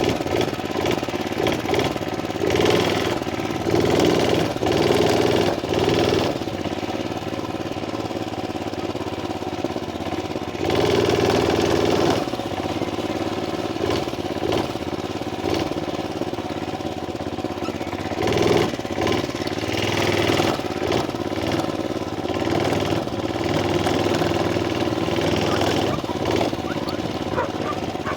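Murray Track 2 mini bike's small engine running, revving up and easing off several times as it is ridden.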